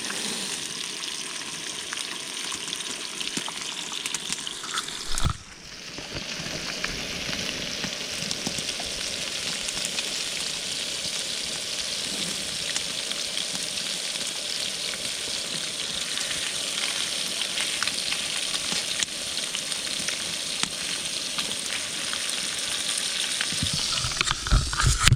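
Fish fillets frying in oil in a fry pan over a camp stove burner, a steady sizzle. A short knock and a brief drop in the sizzle about five seconds in.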